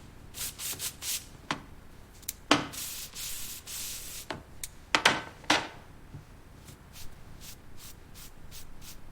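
A series of irregular rubbing strokes on a surface, as in hand sanding or polishing, with one longer hissing swish about two and a half seconds in.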